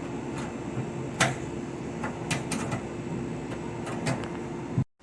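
Scattered light clicks and knocks of metal parts and tools being handled while the detection cable is worked through to the box, over a steady mechanical hum. The sound cuts off suddenly just before the end.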